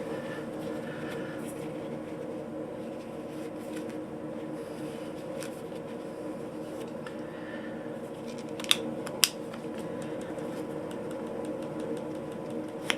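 Steady hum of a fan or air conditioner, with faint small clicks of a knife being handled and two sharp metallic clicks about half a second apart near 9 seconds in.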